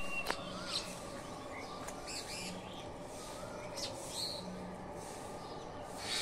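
Birds chirping in short, scattered calls over a steady background hum.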